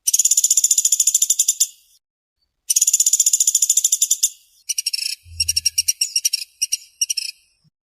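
Pelatuk sampit (pelatuk beras) woodpecker giving fast, high-pitched rattling trills: two long trills of under two seconds each, then a string of shorter, broken bursts. A brief low rumble sits under the trills about halfway through.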